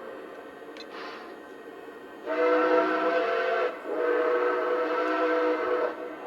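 Steam whistle from the onboard sound system of a Lionel Legacy L2a Mohawk O-gauge model steam locomotive, blowing two long chord blasts, the second longer, over a steady faint hiss.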